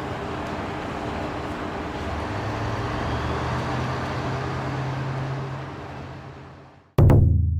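Diesel railcar running, its low engine hum strengthening about two seconds in, over steady noise that fades out near the end. Then comes a sudden loud booming hit with a decaying low ring, a transition sound effect.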